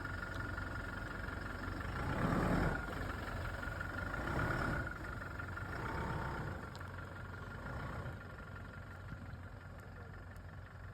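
A vehicle engine running steadily at idle, with a low rumble and a thin steady whine, fading slowly over the seconds.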